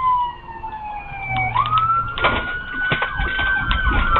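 Police car siren wailing during a pursuit. Its pitch slides down, sweeps back up about one and a half seconds in, holds, then starts falling again near the end. A few knocks and a low vehicle rumble sit underneath.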